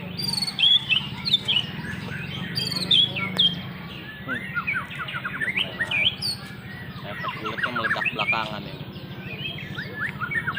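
Many small songbirds chirping and calling at once, quick overlapping chirps and short rapid trills, over a steady low hum.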